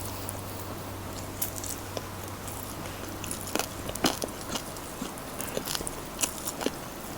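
Close-miked eating: crispy fried chicken being bitten and chewed, with sharp crunches that come thicker from about halfway through.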